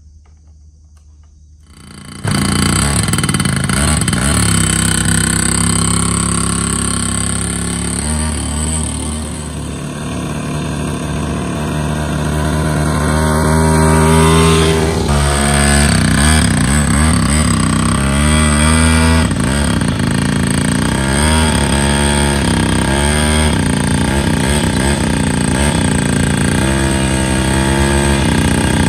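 Restored two-stroke mini motorbike engine catching about two seconds in and running, then revved up and down repeatedly in the second half.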